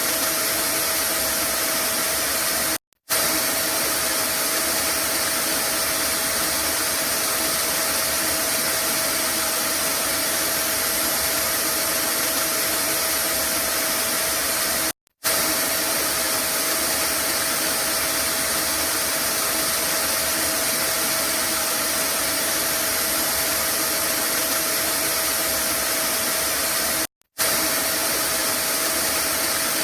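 Vacuum cleaner running steadily: a dense hiss with a constant motor whine. The sound cuts out for a split second three times, about twelve seconds apart, where the recording loops.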